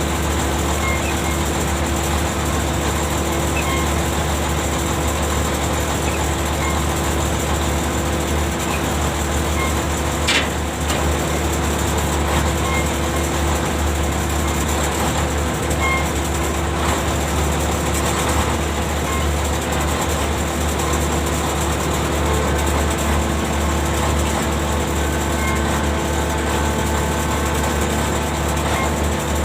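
Ship's machinery running with a steady low hum while the anchor is heaved up, with a single sharp click about ten seconds in.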